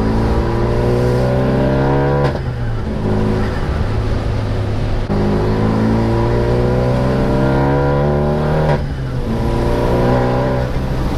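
Renault Mégane RS Mk3's rebuilt 2.0-litre turbo four-cylinder, fitted with a hybrid turbo and decat, under hard acceleration: the engine note climbs in pitch, drops at an upshift about two seconds in, climbs again through the next gear and drops at another upshift near the end.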